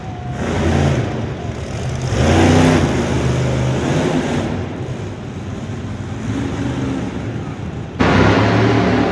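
Monster truck engine revving hard, swelling and easing off several times, with a sudden jump in loudness near the end.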